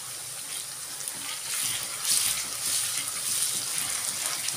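Sliced onions sizzling in hot oil in a wok, with red chilli chutney being stirred in with a wooden spatula; the sizzle grows louder about two seconds in as the mixture is stirred.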